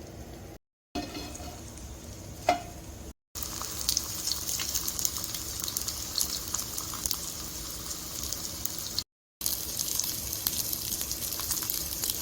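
Food frying in hot oil: a steady sizzle full of small crackles, broken by a few abrupt cuts. Before the frying starts there is a quieter stretch with one sharp clink.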